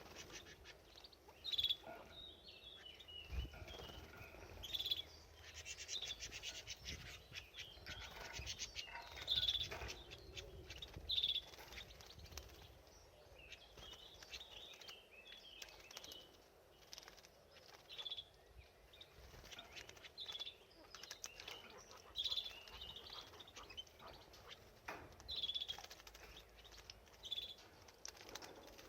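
Canary giving short, scattered chirps, with bursts of faint rustling and clicking in between.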